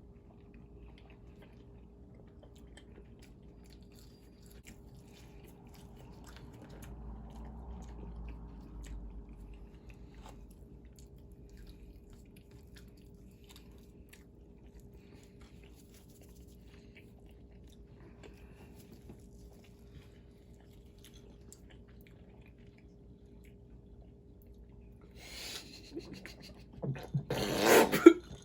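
Faint chewing and small mouth clicks of someone eating fast food, over a steady low hum. Near the end a sudden loud coughing fit breaks in.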